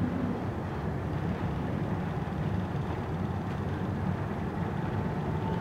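Passenger train running along the line, a steady low rumble of wheels and carriage heard from inside the coach. A faint thin whine comes in near the end.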